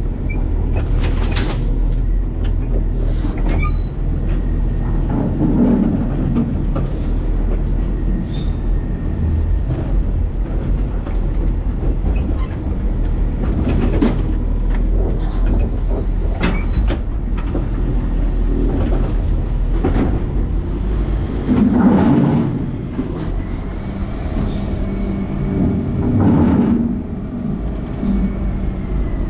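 New Way Sidewinder side-loading garbage truck heard from inside its hopper: a steady engine and hydraulic rumble, with scattered metal clanks and two louder crashes in the last third, typical of trash landing in the hopper.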